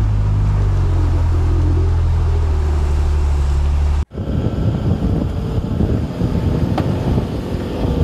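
A 4WD's engine runs at steady low revs while fording a river, its note dropping slightly about a second in. After a sudden cut at about four seconds, wind buffets the microphone with an uneven rumble.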